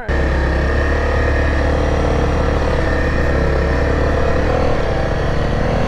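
Motorcycle engine running steadily at an even speed while riding, a loud constant drone with a strong low rumble that starts abruptly.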